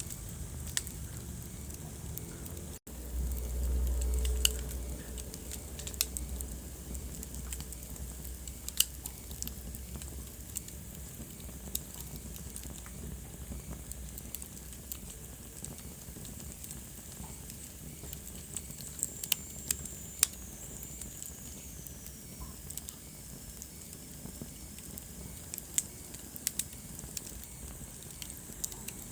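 Wood fire burning in a fireplace: a steady low hiss with frequent sharp crackles and pops. A brief low rumble comes a few seconds in, and a faint falling whistle is heard around the middle.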